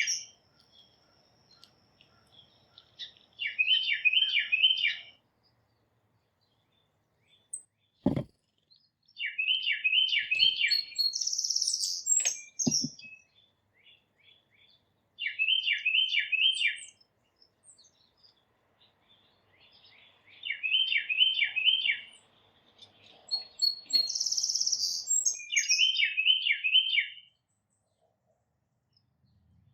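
A songbird singing a short phrase of four or five quick, identical slurred notes, repeated every few seconds; some phrases begin with a higher, buzzier note. Two soft knocks sound about 8 and 13 seconds in.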